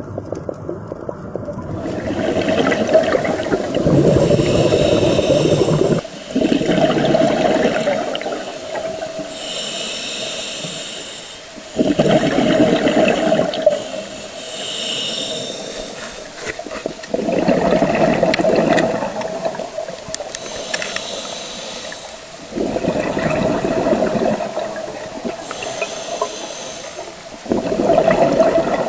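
Scuba diver breathing through a regulator: a sharp hiss on each inhale alternates with a rush of exhaled bubbles, about one breath every five seconds, six breaths in all.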